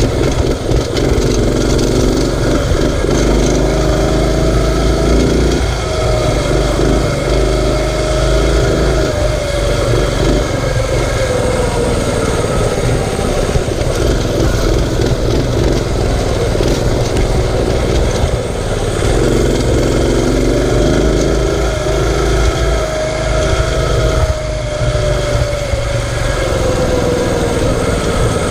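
Mini bike's small engine running under throttle while riding, its pitch climbing and then slowly falling off twice, over a heavy low rumble.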